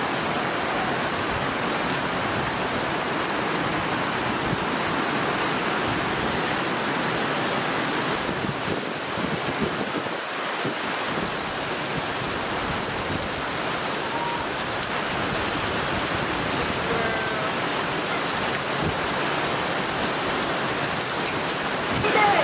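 Heavy rain pouring down steadily in a stormy downpour, heard from under a barn roof.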